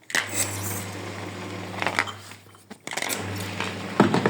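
Small mains-powered pump of a FastWasher bottle washer humming steadily while it sprays water. It cuts out briefly about three seconds in and starts again, and a few clinks of glass bottles come near the end.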